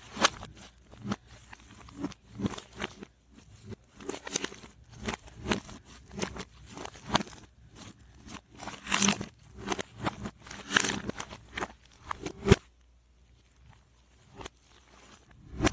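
Slime worked into shaving foam, squished and stretched by hand, its sticky crackling and popping played backwards; the crackles stop for a short quiet stretch about three-quarters of the way through.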